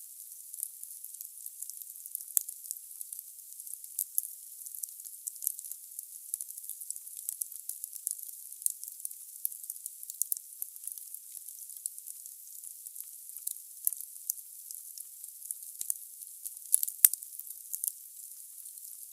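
Wood fire burning in a fireplace, crackling and hissing: a steady high hiss dotted with many small sharp pops, and one louder pop near the end.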